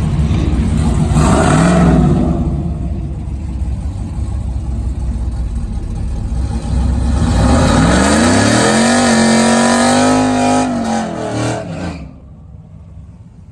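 Racing engine revving hard. There is a short rise and fall in revs about two seconds in, then from about halfway the pitch climbs steadily and holds high for several seconds, like a car pulling through a drag launch. The sound falls away abruptly near the end.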